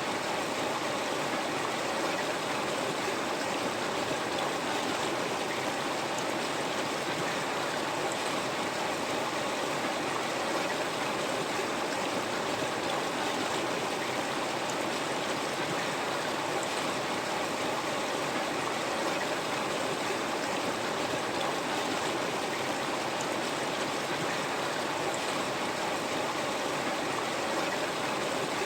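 River water flowing steadily over rocks: an even, continuous rushing with light gurgling.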